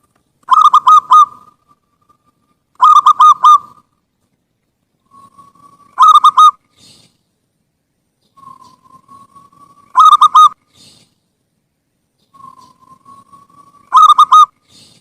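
Zebra dove (perkutut) singing: five loud cooing phrases of three or four quick notes each, a few seconds apart, each led in by a soft drawn-out note.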